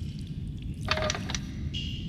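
Ambient soundscape: a steady low rumble, with a quick cluster of sharp clicks and a brief tone about a second in, followed by a thin high steady tone near the end. The click-and-tone cluster recurs about every two seconds.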